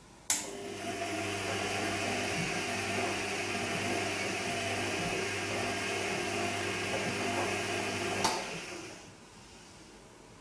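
Bosch Serie 2 Vario Perfect washing machine near the end of its Silk programme: a motor or pump in the machine switches on with a click, hums steadily for about eight seconds, then cuts off with another click and fades away.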